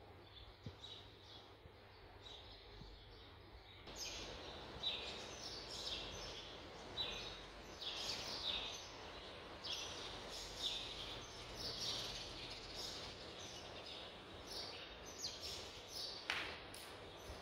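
Birds chirping: many short, high calls repeating about every half second, louder from about four seconds in, over a low steady background hum.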